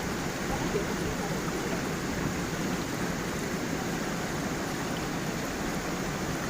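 Forest stream running over stones and small falls: a steady rush of flowing water with light gurgling.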